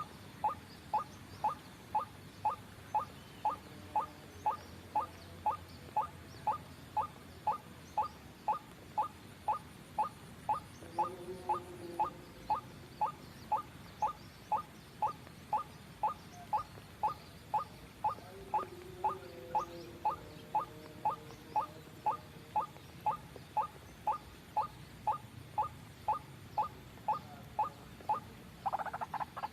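White-breasted waterhen (ruak-ruak) call played as a trapping lure: a short falling note repeated steadily, about two a second. Just before the end a denser, rattling call starts over it.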